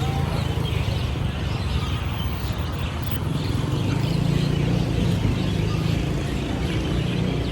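Many small birds chirping constantly in short high calls over a steady low rumble of road traffic.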